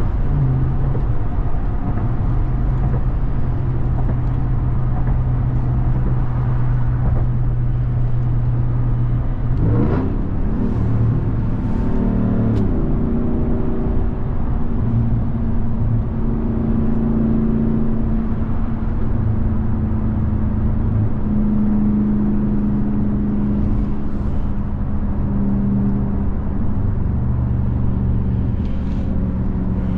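2021 Ram 1500 TRX's supercharged 6.2-litre Hemi V8 running steadily under way. About ten seconds in it revs up sharply in a quick rising sweep, then settles to a higher engine note that shifts in pitch as the truck drives on.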